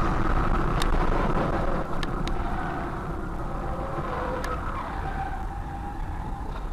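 Engine and road noise of a car on the move, a steady rumble with a faint tone that dips in pitch about four to five seconds in, and a few light clicks.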